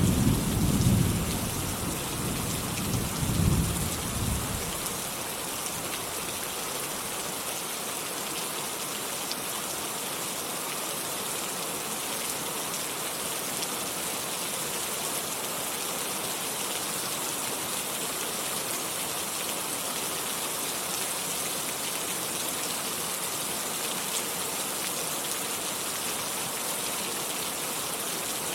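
Steady heavy rain falling, with a rumble of thunder in the first few seconds that swells twice before it fades, then rain alone.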